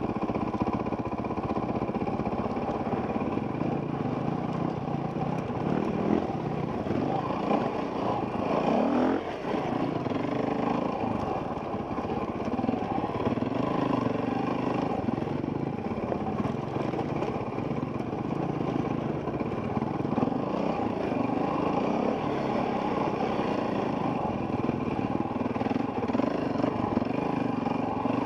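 Off-road enduro motorcycle engine running under throttle on a trail, its pitch rising and falling as the rider works the throttle, with a sharp rev-up about eight seconds in. Heard from a helmet-mounted camera.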